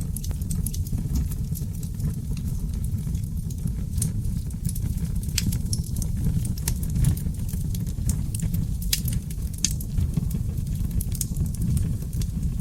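Oak log fire in a fireplace crackling, with frequent sharp irregular pops over a steady low rush of flames.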